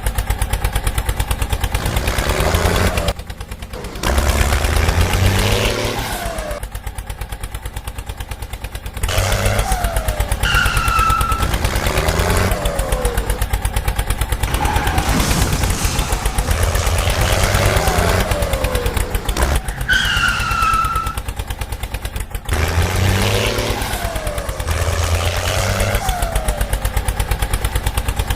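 Tractor's diesel engine running with a fast, even exhaust beat, its pitch stepping up and down as it revs. A short, high falling tone sounds twice.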